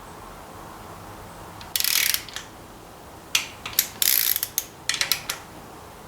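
Inch-pound torque wrench ratcheting as bolts are snugged down, in several short spells of quick clicks starting about two seconds in.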